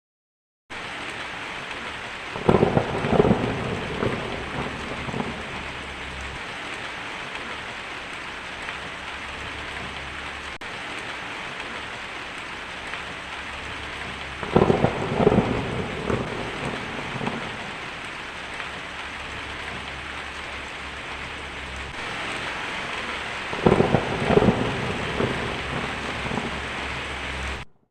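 Steady rain with three rolls of thunder, each cracking and then rumbling for a few seconds. The rain comes in abruptly just under a second in and cuts off just before the end.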